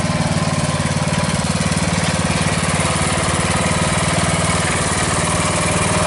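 Riding lawn mower's small engine running steadily at an even speed, with a fast regular pulse.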